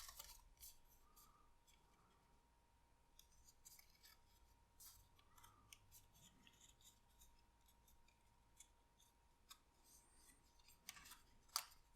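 Faint rustling and crinkling of card stock being creased and folded by hand, with scattered soft crackles and a couple of sharper ones near the end.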